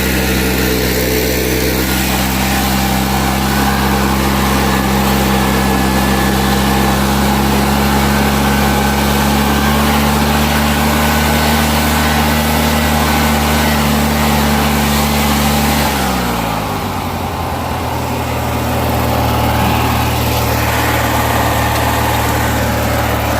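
Opposed-twin engine of a Craftsman mudmower (a modified riding mower) running steadily at full throttle, then throttled back about sixteen seconds in, its pitch falling to a steady idle.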